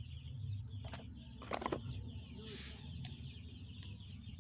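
Chickens clucking faintly in the background, with a continuous high chirping and a few brief clicks over a low steady hum.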